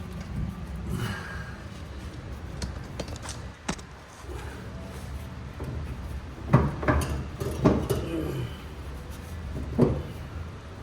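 Scattered metal clunks and knocks as a car's front K-member and suspension assembly is worked loose and dropped out, with a cluster of several sharp knocks about six to seven and a half seconds in and another near the end.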